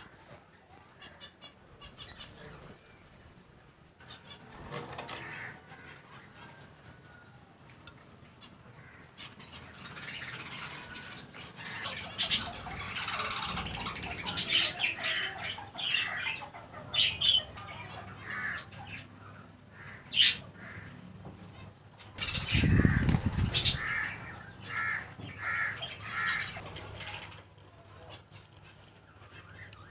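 Pet budgerigars and other small parrots chirping and squawking, faint and sparse at first and much busier from about ten seconds in. A brief low rumble comes about two-thirds of the way through, followed by a run of about five short, evenly spaced calls.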